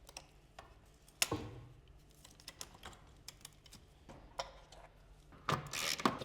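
Hand tools working on the car battery's bolts and terminals: scattered light metallic clicks and taps, a sharper knock about a second in, and a busier clatter near the end.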